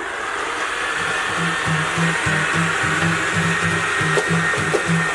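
Robot vacuum cleaner running, a steady whirring noise that switches on abruptly at the start. About a second in, a low pulsing at about four beats a second joins it.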